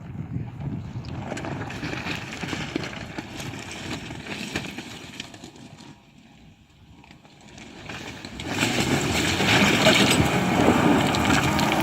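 2007 Suzuki Escudo driving off-road, with rough engine and tyre noise. The sound dips for a moment past the middle, then grows much louder about eight and a half seconds in.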